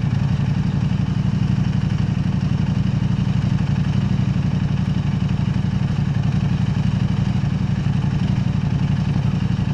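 KTM 890 Adventure R parallel-twin engine through an Arrow Race-Tech aftermarket exhaust, running at a steady pace with no revving. It has a deep, even exhaust note.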